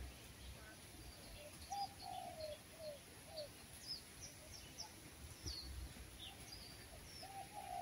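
Birds calling: many short, high, falling chirps scattered throughout, with runs of lower falling notes about two seconds in and again near the end.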